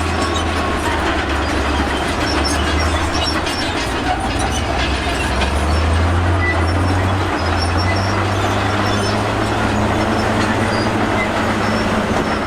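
Crawler bulldozer working, its diesel engine a steady low drone under the metallic clatter and squeal of its steel tracks, with scattered clinks of rock.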